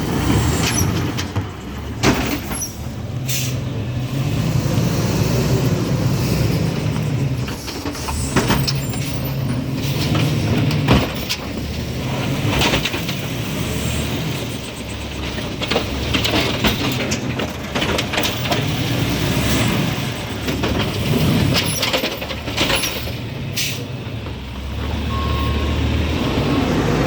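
Garbage truck with an Amrep automated arm, its diesel engine revving up and down several times, with sharp hisses and knocks in between.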